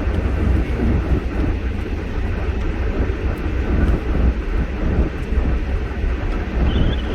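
Steady low rumble of a vehicle driving on snowy roads, heard from inside the cabin.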